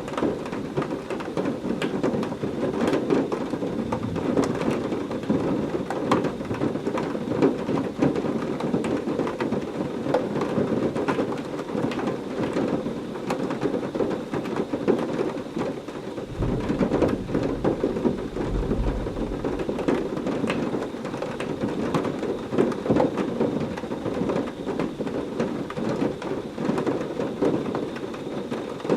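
Heavy rain falling steadily, with many sharp nearby drop impacts. About sixteen seconds in, a low roll of thunder rumbles under it for a few seconds.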